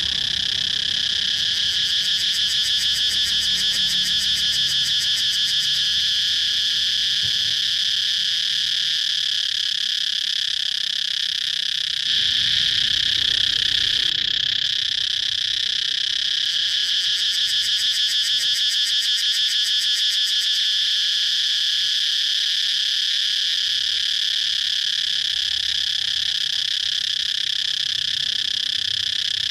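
Cicadas singing: a continuous, even, high-pitched drone, with a fast pulsing in it that comes and goes.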